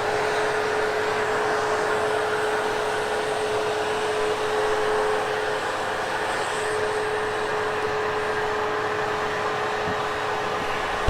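Hoover HushTone vacuum cleaner running steadily while vacuuming carpet on a step, its motor giving one steady whine over a constant rush of air.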